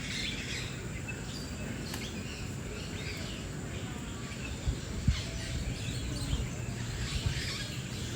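Many birds chirping, short high calls scattered throughout over a steady low rumble. Two sharp thumps come a little after the middle.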